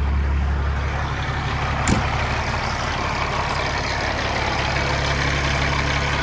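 Heavy diesel engine of a freshly overhauled 2014 Peterbilt glider truck idling steadily, with one short click about two seconds in. Its accessory belt, just treated with belt conditioner against a squeak, is running quiet, though the owner is not fully sure it is fixed.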